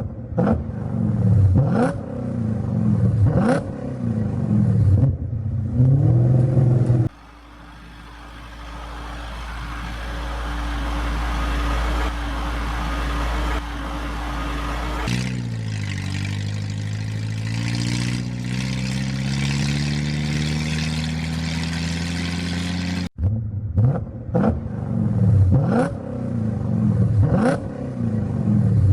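Vehicle engine sounds edited together. First a motor revs up and down again and again, then comes a steady rumbling hiss, then an engine note climbs slowly in pitch. The opening stretch of repeated revving comes back near the end.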